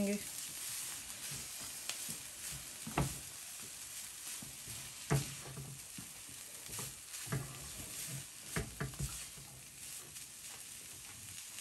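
Shredded chicken frying in a nonstick wok with a steady sizzle, while a spatula stirs it, scraping across the pan with a few soft knocks against it.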